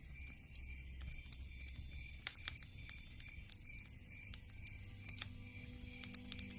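Campfire crackling with irregular sharp pops, over an even, steady chirping of night insects.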